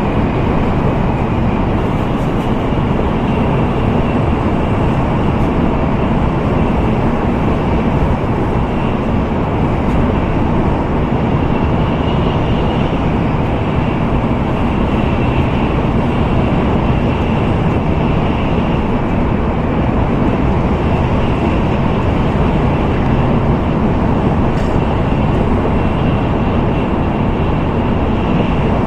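Steady running noise of an N700A Tokaido Shinkansen train at speed, heard inside the passenger cabin: an even, deep rumble with a faint high hum on top.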